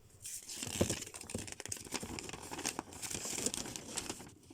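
Toy packaging crinkling and rustling as it is handled and pulled about, with many small irregular crackles.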